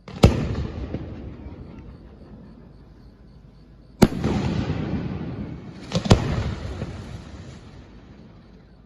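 Large aerial firework shells bursting about 100 m away: three loud bangs, the second about four seconds after the first and the third a double report two seconds later. Each is followed by a long, fading tail of crackle and echo.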